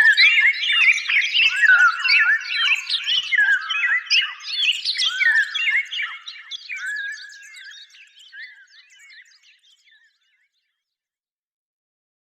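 Many small birds chirping and twittering together in a dense, overlapping chorus that fades out gradually, ending in silence about ten seconds in.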